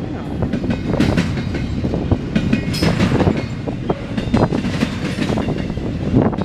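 Freight cars of a CSX intermodal train rolling past, a steady loud rumble with frequent sharp clacks of wheels striking rail joints.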